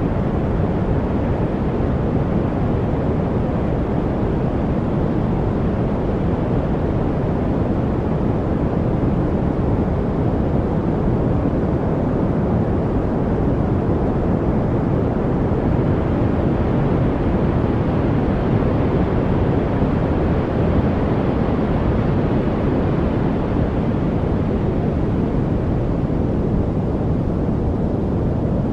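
Steady noise-masking track: an even, unbroken rush with most of its weight in the deep low end and little treble. No birds or water sounds stand out.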